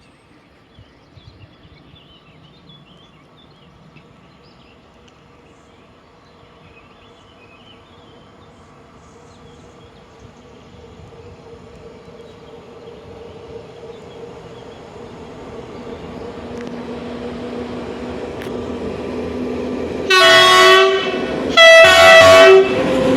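A train approaching, its running noise growing steadily louder over about twenty seconds, then sounding its horn in two blasts of about a second each near the end.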